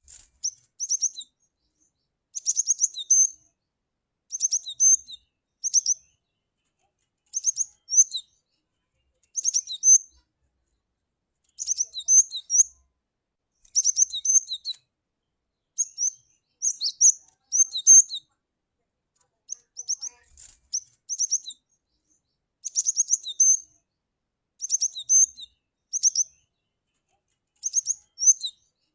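Cinereous tit (gelatik batu) calling: short clusters of high, quick chirping notes, repeated every second or two with brief silent gaps.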